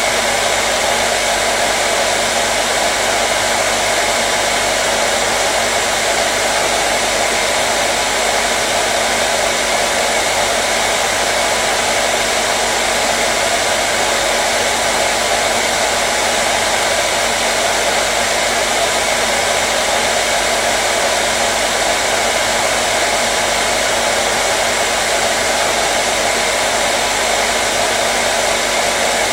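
Hair dryer blowing steadily: an even rush of air with a faint steady motor hum, unchanging.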